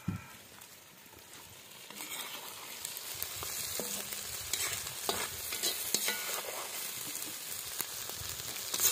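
Onions and liver frying in a cauldron over a fire, sizzling, with a metal spoon scraping and clinking against the pot as the food is scooped out. The sizzle grows louder about two seconds in.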